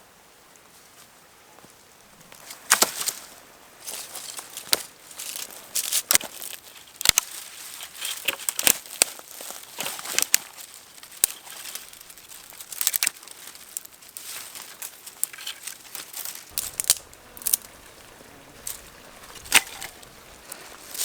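Irregular crinkling and crackling handling sounds, sharp crisp clicks coming every second or so from about three seconds in.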